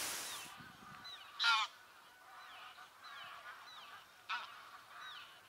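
Bird calls: a string of short, falling calls with a louder honking call about a second and a half in and a shorter one just after four seconds.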